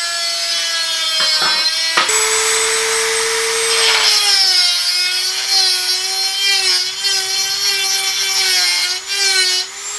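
Handheld high-speed rotary tool (Dremel-type) whining steadily, its pitch dropping a little as the bit bears on the workpiece and wavering as it works.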